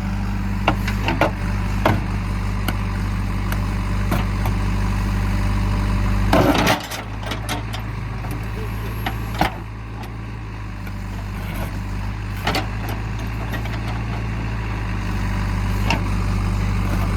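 Diesel engines of a backhoe loader and tractors running steadily, with scattered sharp knocks and clanks. A louder rush of noise comes about six seconds in, and the engine sound drops a little about nine and a half seconds in.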